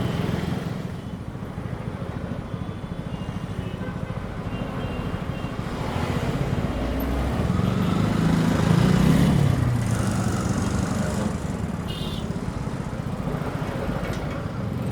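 Exhaust of a TVS Apache RTR 4V's single-cylinder engine, recorded close to the silencer while riding in traffic. The note builds as the bike pulls away, is loudest about nine seconds in, then settles to a steadier run.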